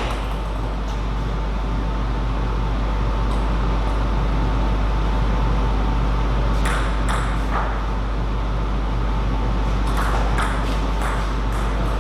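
Table tennis ball clicking sharply off rackets and table in quick exchanges: a few hits about seven seconds in and a fast run of hits near the end. Under them runs a steady hum.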